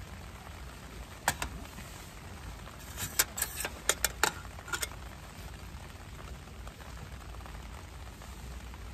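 Steady rain falling, with a few sharp clicks about a second in and a quick run of clicks a few seconds later: chopsticks tapping against a plate and metal cup while eating.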